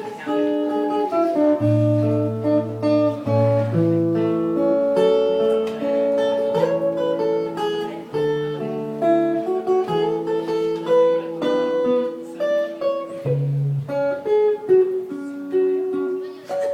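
Acoustic guitar playing an instrumental piece: a melody of single picked notes over lower bass notes.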